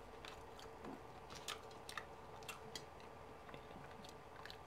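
Faint chewing of a breakfast of scrambled eggs and toast, with soft, irregular mouth clicks.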